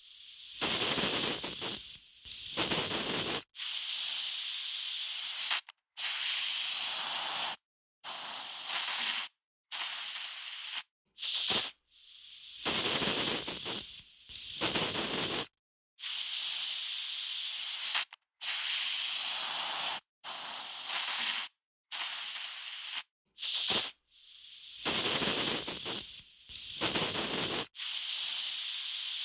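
Aerosol spray can hissing in a series of about fifteen separate sprays, each lasting from a fraction of a second to a few seconds, with sudden short silences between them.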